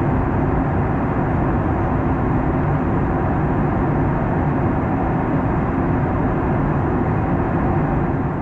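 Steady cabin noise inside a Boeing 737 MAX 9 in flight: an even, unchanging rush of airflow and engine noise with a faint low hum.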